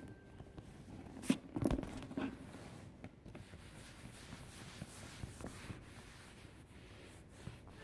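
Close handling noise from a leather-trimmed bag being wiped down: a few knocks and clicks a second or two in, then a soft rubbing.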